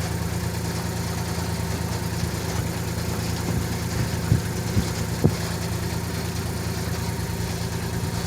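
Cal 29 sailboat's engine running at a steady idle, with a few light knocks about halfway through.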